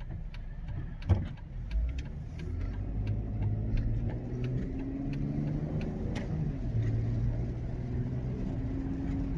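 Car engine and road rumble heard from inside the cabin while driving, the engine note shifting up and down in pitch. A single sharp knock about a second in.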